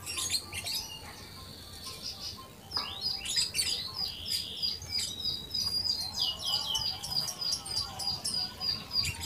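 Small birds chirping: a steady run of short, high chirps repeated about three times a second from about three seconds in, with other calls and short trills around them.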